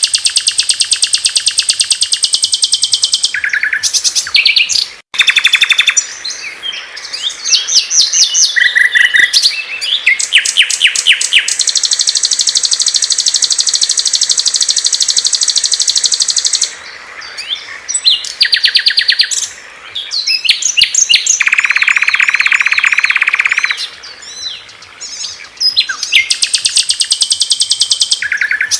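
Loud, rapid trilling and chirping songs of several different small songbirds, one after another. Each song type runs a few seconds and then cuts abruptly to the next, as in a spliced compilation. A long, steady high trill runs through the middle, and a lower trill comes later.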